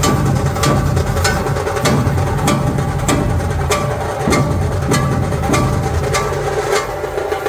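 Dhol drums played by a drum troupe, beating a steady rhythm with a sharp strike roughly every 0.6 seconds over a continuous low drum roll. The deep drumming thins out near the end.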